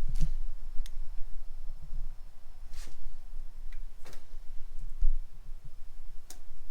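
A handful of sharp, separate metallic clicks from parts and tools being handled on a stripped engine, over a low rumble of handling noise.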